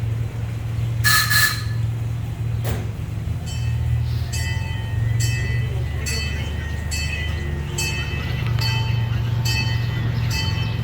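Amusement park train running with a steady low rumble. About a second in there is a brief high squeal, and from about a third of the way in a bell rings repeatedly, roughly twice a second.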